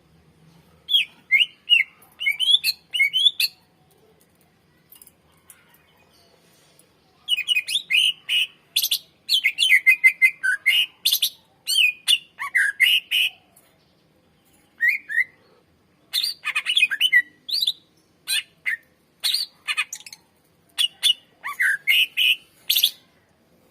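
Greater green leafbird (cucak ijo) singing: loud phrases of rapid whistled and chirping notes with sharp harsh calls, broken by short pauses.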